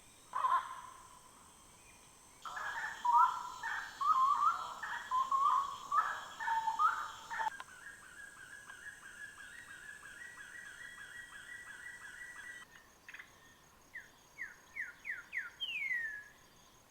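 Bird-like animal calls: a run of loud warbling chirps, then a fast, even trill, then a series of short whistles sweeping downward. The sections cut in and out abruptly, as if edited together.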